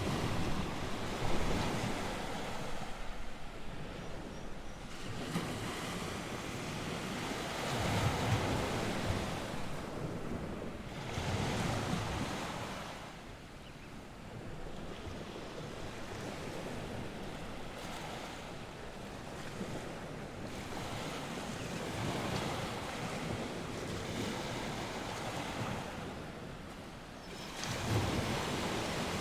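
North Sea surf: waves breaking and washing up the shore, the rush swelling and fading every several seconds, with coastal wind blowing over it.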